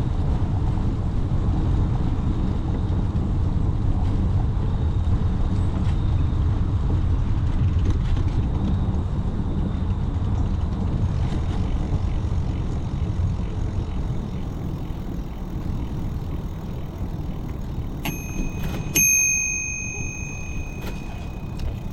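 Steady low rumble of wind and riding noise, then near the end a bicycle bell rings twice, a bright ding that rings on after the second, louder strike.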